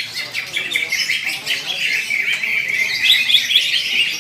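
Caged cucak ijo (green leafbirds) singing at once in a dense, continuous run of rapid chirps and trills.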